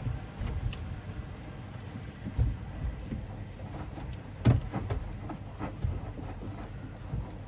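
Hoover front-loading washing machine in its wash, drum tumbling with laundry and water sloshing and a few soft irregular thumps, the loudest about four and a half seconds in.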